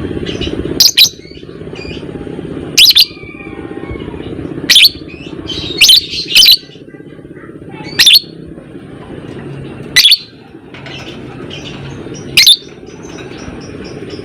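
Lovebird giving short, loud, shrill calls about every two seconds, with fainter chirps between them, over a steady low hum.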